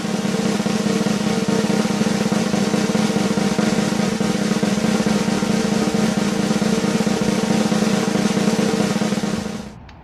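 A snare drum roll sound effect, a fast continuous rattle lasting nearly ten seconds, that cuts off abruptly.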